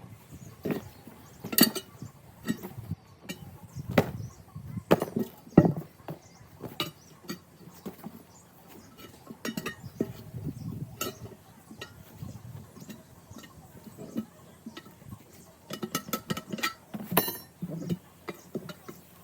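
Steel tire bars clanking and knocking against a steel truck rim as an 11R22.5 tire is worked onto it by hand: irregular metal knocks and clinks, with a quick run of clinks near the end.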